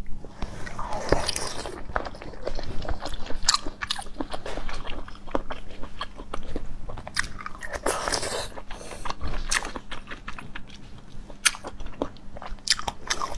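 Close-up chewing and biting of ready-to-eat sea cucumber: a dense run of short, crisp crunchy clicks, with louder bites about a second in and again past the middle.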